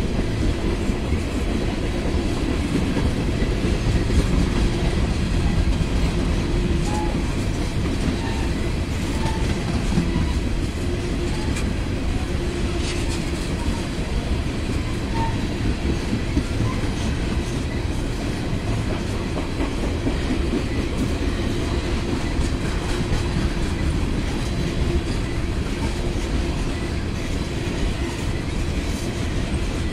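Freight train of empty ethanol tank cars rolling past steadily, its steel wheels on the rails making a continuous low rumble.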